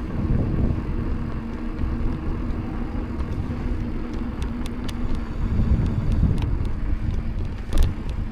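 Mountain bike riding along a street: rumble of tyres and wind on the microphone, with a steady low hum under it. A few sharp clicks in the second half and one louder knock near the end.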